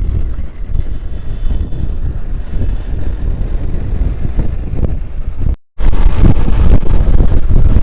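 Wind buffeting the microphone over the rumble of a motorcycle ride. The noise cuts out for an instant about two-thirds of the way through, then comes back louder.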